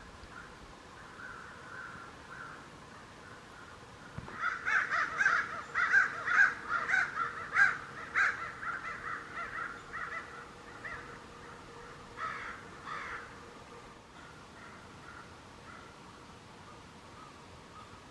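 Crows cawing: a fast run of many caws begins about four seconds in and lasts some six seconds, with a few more a little later and fainter calls before and after.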